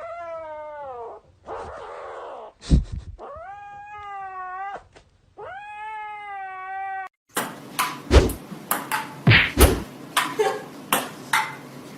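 A cat giving three long, drawn-out meows, the first falling in pitch. Then, from about seven seconds in, a run of sharp knocks and a few heavy thuds.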